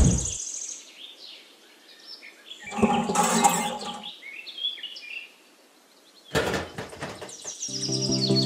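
Birds chirping over a soft background, with a swoosh at the start, a short noisy burst about three seconds in and a few clicks around six and a half seconds; background music comes in near the end.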